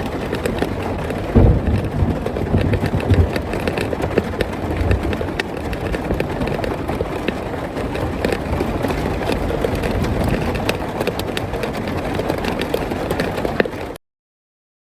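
Rain drumming on a car's roof, heard from inside the car: a dense patter of drops with a few heavier low thumps in the first few seconds, cutting off suddenly near the end.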